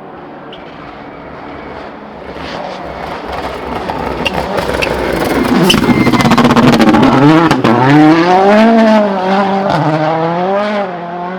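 A World Rally Car's turbocharged four-cylinder engine approaching hard and growing steadily louder, with a string of sharp cracks as it nears. It passes at its loudest, then the revs swing up and down several times as it drives on.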